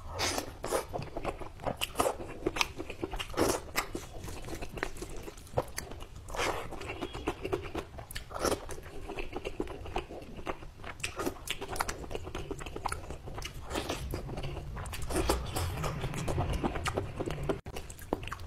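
Close-miked eating sounds: a man biting and chewing mouthfuls of chicken curry and rice eaten by hand, with dense, irregular mouth clicks throughout.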